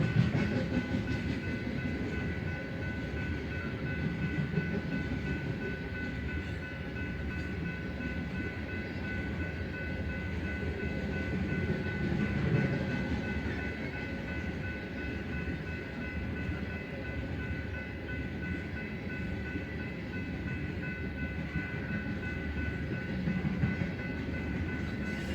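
A loaded BNSF coal train's hopper cars rolling past: a steady rumble of wheels on rail, with a thin steady high ringing tone over it.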